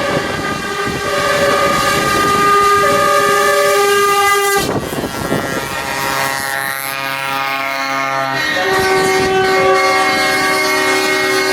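Truck air horns with a train-horn sound, blowing long held chords that shift pitch several times, over diesel engines running. There is a sharp break about four and a half seconds in.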